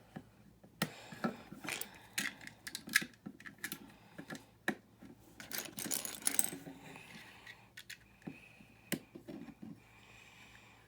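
Small plastic building-brick pieces clicking and clattering as they are picked out and pressed together: irregular sharp clicks, with a busier flurry around the middle.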